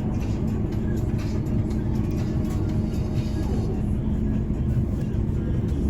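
Mercedes-Benz O405N2 city bus under way, heard from inside the cabin: a steady engine drone with road noise.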